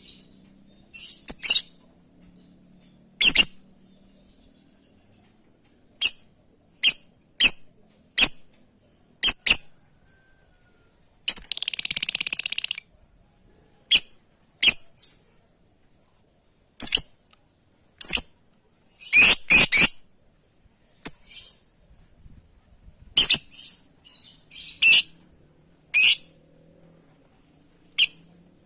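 A lovebird calling to a companion: short, sharp, high-pitched chirps spaced irregularly a second or two apart, some in quick pairs, with one longer harsh, buzzy call about twelve seconds in.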